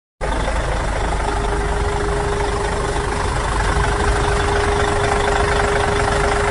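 Tractor motor running steadily, with a steady whining tone coming in about a second in.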